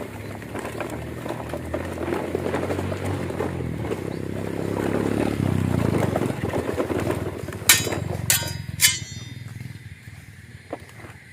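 A steady motor hum with rough scraping, then three sharp ringing clinks in quick succession about eight seconds in, after which it goes quieter.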